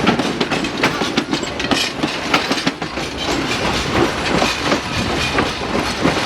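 Railway passenger coaches rolling past close by, their wheels clattering in an irregular run of sharp clicks over the rail joints and points, over a continuous rumble.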